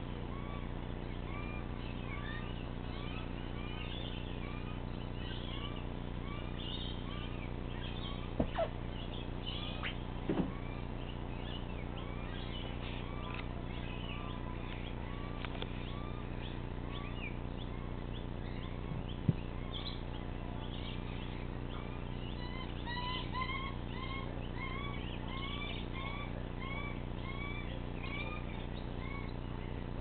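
Birds chirping over and over, many short chirps a second, over a steady low hum. A few knocks stand out, the sharpest a little under two-thirds of the way through.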